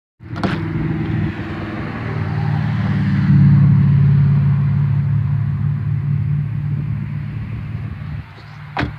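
2007 Toyota Yaris's 1.5-litre four-cylinder engine running with a steady low drone that grows louder over the first few seconds and eases off again, with a sharp click near the end.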